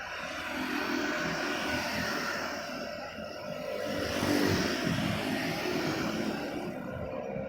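A passing vehicle, a steady rushing noise that swells about four seconds in and then eases.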